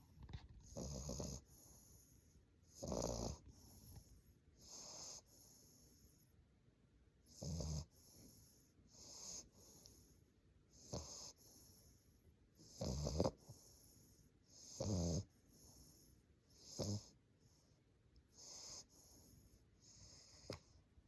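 English bulldog puppy snoring in its sleep: a regular run of snoring breaths about one every two seconds, some loud and low, others softer and wheezy.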